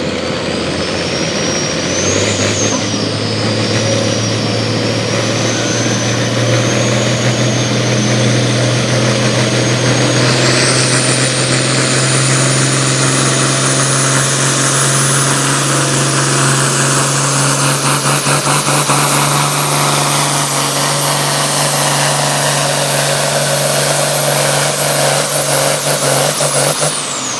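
Pulling vehicle's engine running hard at full throttle through a sled pull, with a steady deep note. A high whine rides over it, jumping up in pitch about ten seconds in, climbing slowly, then falling away near the end as the engine comes off throttle.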